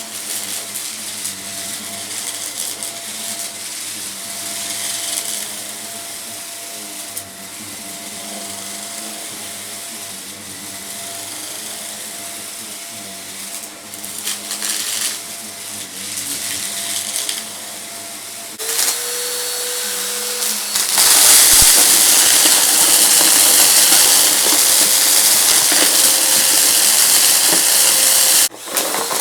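Vacuum cleaner running with a steady motor hum, crunchy debris rattling up the intake in short bursts. A bit past halfway the motor tone drops in pitch, and soon after a much louder rushing hiss of suction takes over, with a brief dip just before the end.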